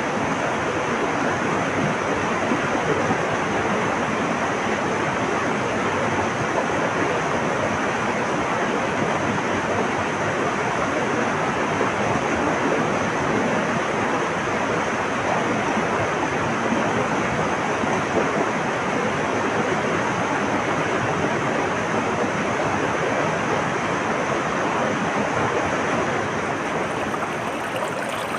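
Flowing water rushing steadily. It is an even, unbroken noise with no distinct splashes, and the sound changes slightly near the end.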